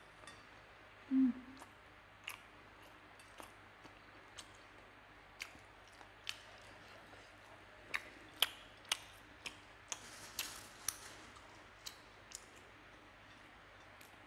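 Close-up eating sounds of someone chewing chicken wings and rice by hand: scattered short wet clicks and lip smacks, more frequent in the second half, with a brief low hum from the eater about a second in.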